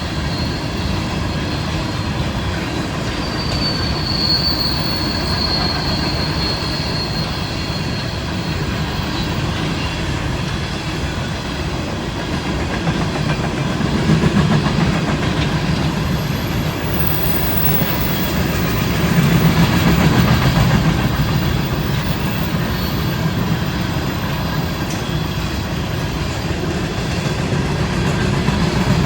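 Cars of a BNSF coal train rolling past, a loud, steady rumble of steel wheels on rail. A high wheel squeal comes and goes over the first nine seconds or so.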